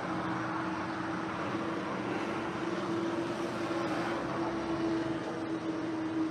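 A motor running steadily: a constant low drone over an even hiss.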